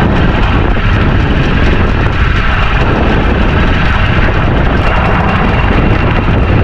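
Strong wind buffeting the microphone in a 30-knot breeze at sea, a loud steady rumble with no let-up.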